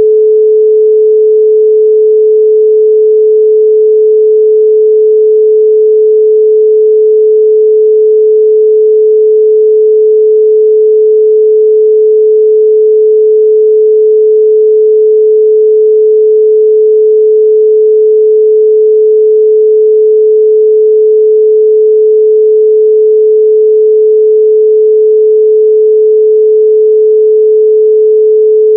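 A steady 432 Hz pure sine tone, loud and unchanging, with no overtones.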